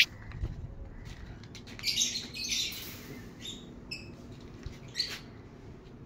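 Small birds chirping and squawking in short calls about two, four and five seconds in, preceded by a sharp click right at the start.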